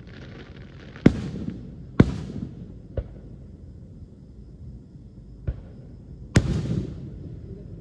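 Aerial fireworks shells bursting: five sharp bangs, three about a second apart, then a quieter one and a louder one after a pause. The loudest bangs trail off briefly after each burst.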